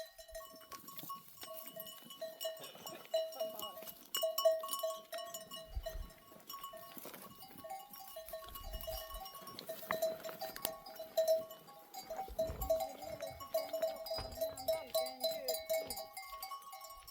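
Bells on a flock of sheep ringing and clinking continuously as the animals move and graze.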